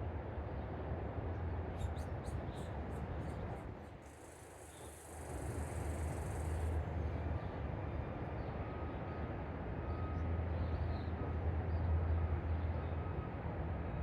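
Steady low rumble of outdoor background noise, dropping away briefly about four seconds in, with a short high hiss just after.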